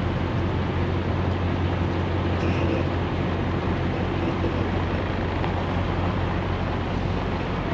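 Semi-truck under way: a steady engine drone and road noise that holds even throughout.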